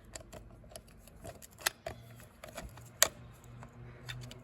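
Irregular metallic clicks and taps of small injection-pump parts and tools being handled, with two sharper knocks, one just before the middle and one a little later.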